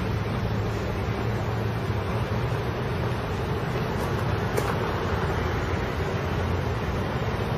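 Freight train rolling past with a steady low rumble, and two faint ticks about four seconds in.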